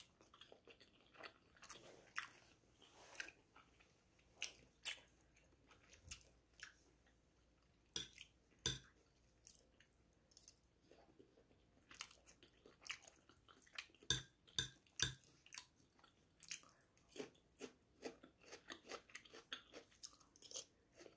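Close-miked chewing of spoonfuls of coconut rice: soft, irregular wet mouth clicks and smacks, with a few louder ones now and then.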